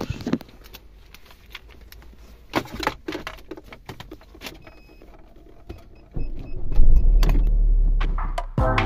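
Scattered quiet clicks and knocks inside a car, a few short electronic beeps about five seconds in, then the car's engine starts about six seconds in and runs with a deep, loud rumble.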